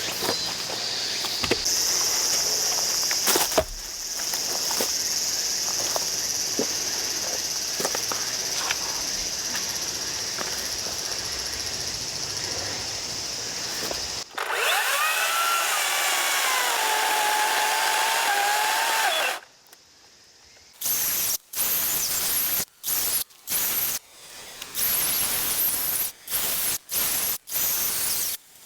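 Makita cordless chainsaw running steadily with a high whine. Partway through, the sound changes to a whine that falls in pitch for about five seconds. It then stops, and near the end the saw is run in a series of short bursts with pauses between them.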